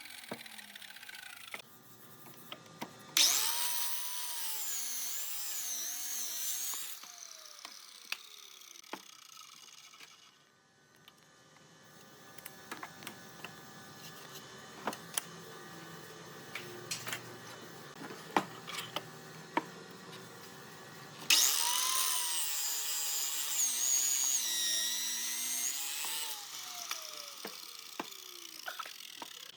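Electric power tool cutting wood in two bursts of about four and five seconds, its high whine wavering and dipping in pitch under load. Between the bursts come scattered sharp clicks and knocks.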